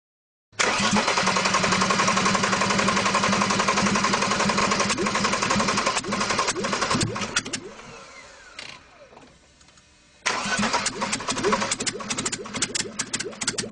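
Mercedes-Benz M103 straight-six engine running with no exhaust manifold fitted. About six seconds in it is shut off and winds down, falling in pitch. About ten seconds in it suddenly runs loudly again.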